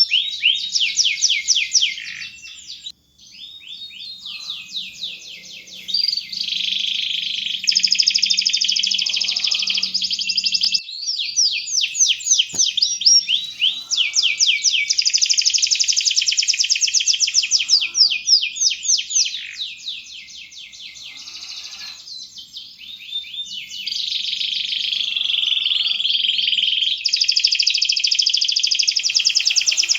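Domestic canary singing a long, continuous song of fast trills, runs of rapidly repeated high notes changing from phrase to phrase. The song drops quieter briefly a few seconds in and again about two-thirds through.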